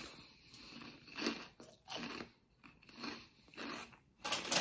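Mouth-closed chewing of crunchy fried pork rinds (BBQ chicharrones), with several separate soft crunches about a second apart. Near the end a louder rustling starts, the crinkle of the plastic snack bag being handled.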